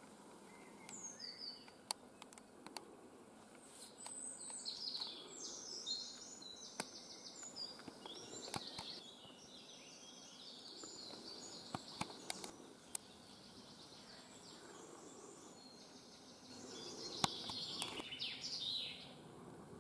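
Faint woodland birdsong: bursts of rapid, high-pitched song phrases, the longest from about 4 to 9 seconds in and another near the end, over a quiet forest background with a few sharp clicks.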